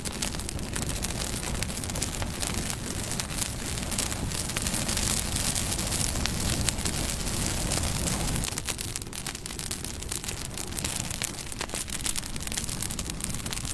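Wood fire burning with a steady rush and dense, irregular crackles and pops.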